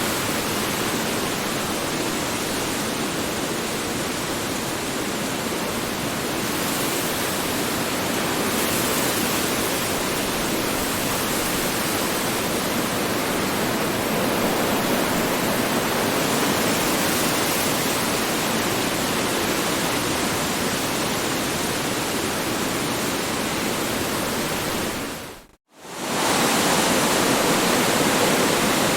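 Strong wind blowing in a steady rush with slow swells. About three-quarters of the way through it briefly fades out almost to silence and comes straight back.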